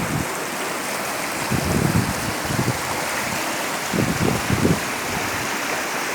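Murti River cascade rushing over rocks: a steady roar of falling water, with two low rumbling swells about a second and a half in and about four seconds in.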